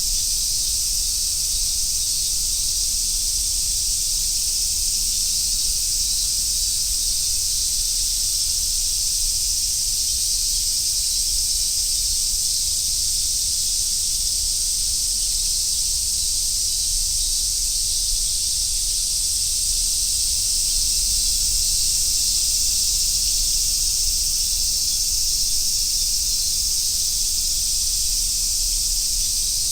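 Chorus of summer cicadas singing in one steady, unbroken high hiss, growing a little louder about two-thirds of the way in, over a low rumble.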